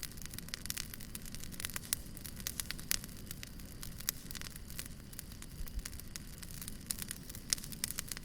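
Wood fire crackling: frequent sharp snaps and pops over a low steady rumble of the flames.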